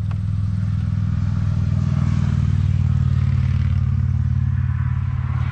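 Road traffic: a passing vehicle's engine and tyre noise swells and fades over a few seconds, over a steady low drone.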